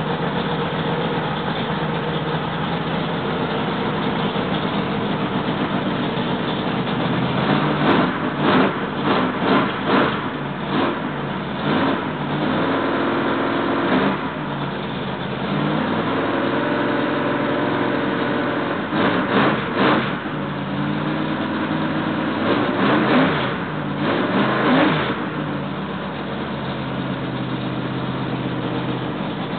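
Freshly rebuilt Chevrolet L88 427 big-block V8 running on an engine stand through mufflers on its first break-in run, idling fast. From about a third of the way in, the throttle is opened by hand in several short revs that rise and drop back to idle.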